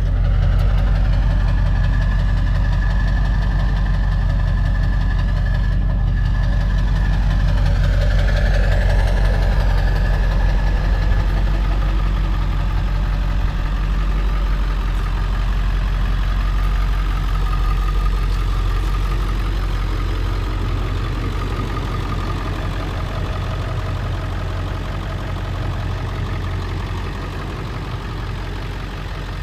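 Pickup truck engine idling steadily, getting slowly quieter toward the end.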